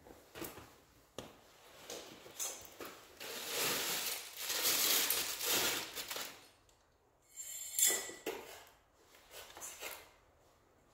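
Handling noises: scattered clicks and knocks, a longer rustle in the middle, and a short metallic clink near the end.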